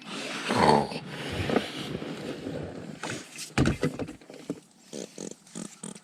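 A dog making sounds, mixed with uneven rustling noise and a few knocks.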